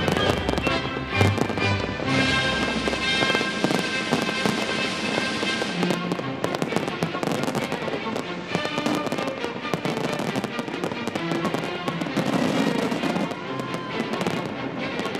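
Fireworks display: many aerial shells bursting and crackling in quick succession over music with sustained notes.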